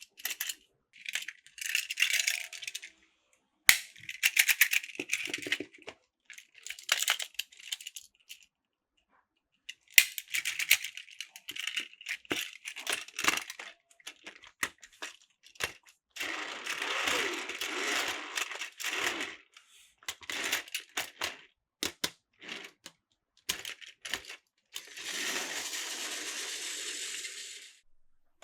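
Plastic Plarail toy track and train parts clicking, knocking and rattling as they are handled. Twice there is a few seconds of continuous rattling, once past the middle and once near the end.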